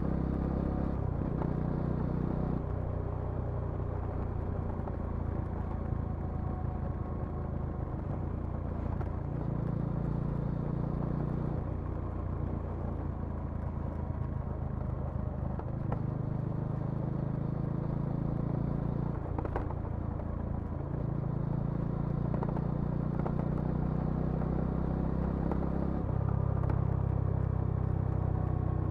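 Bajaj Dominar 400's single-cylinder engine and exhaust running under way. The engine note holds steady for a few seconds at a time, then steps up or down to a new pitch as throttle and gears change, and gets a little louder near the end.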